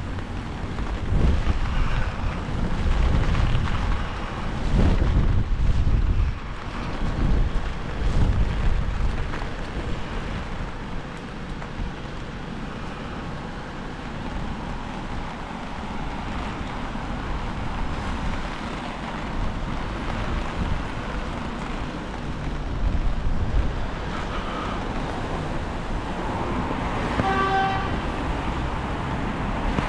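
Wind buffeting the microphone in strong low gusts through the first several seconds and again later, over a steady outdoor street background. Near the end a brief pitched tone, like a horn, sounds for about a second.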